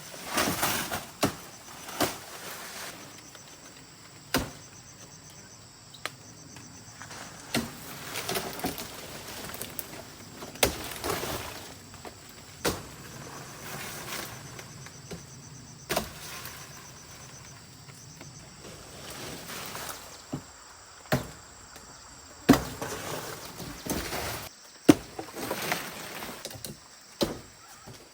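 Irregular sharp knocks and clatters, one every second or two, with scraping and rustling between them, as of materials being handled and worked by hand.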